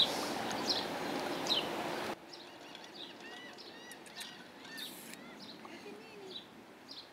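Birds chirping: a short falling chirp repeats about once a second, with more bird calls joining after about two seconds. A steady hiss sits under the first two seconds and cuts off suddenly.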